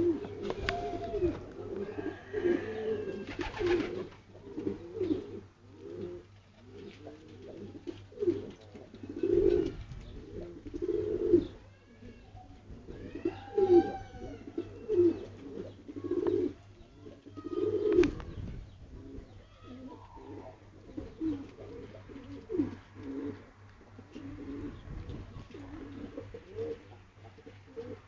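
Pigeons cooing over and over, several birds overlapping in low repeated calls, with a few higher chirps mixed in.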